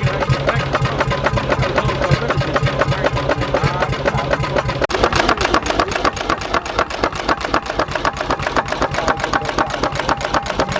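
Lanz Bulldog HL's single-cylinder hot-bulb two-stroke engine running with a fast, even knocking beat. A steady low hum underneath cuts off suddenly about five seconds in.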